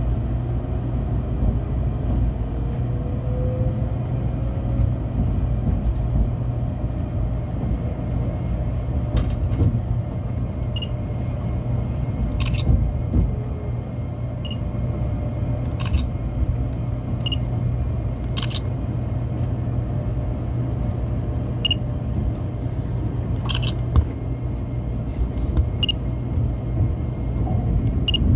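Low, steady rumble inside a Tokaido Shinkansen passenger car rolling slowly through depot tracks, with a faint rising whine a few seconds in. From about a third of the way through come sharp metallic clicks every second or few seconds, as the wheels cross points and rail joints.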